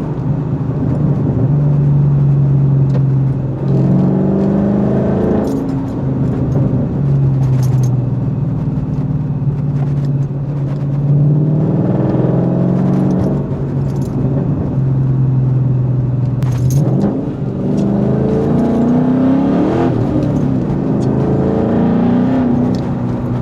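2014 Mustang GT's Coyote 5.0 V8 through an off-road H-pipe and Corsa Xtreme axle-backs while driving: a steady exhaust drone at cruise, with the pitch rising and falling a few times as the car accelerates and shifts, including a climb in revs near the end.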